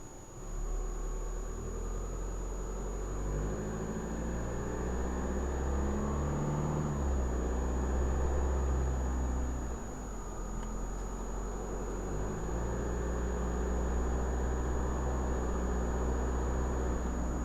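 Car engine running with low road rumble, heard from inside the car; the engine note rises and falls as it drives, easing off about ten seconds in. A thin, steady high-pitched whine sits over it throughout.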